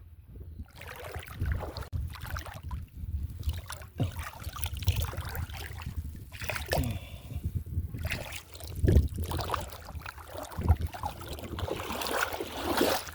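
Water sloshing and splashing irregularly in shallow sea water, with a low rumble of wind on the microphone.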